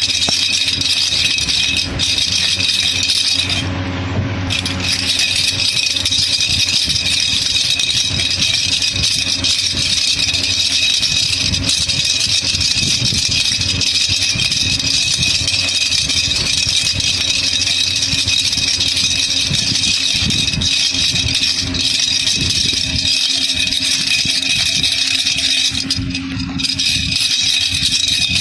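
Baby rattle (jhunjhuna) shaken continuously, a dense steady rattling. The rattling drops out briefly about four seconds in and again near the end.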